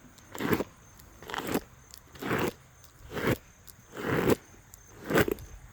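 A brush stroked down through a pony's long mane, six crackling strokes about a second apart.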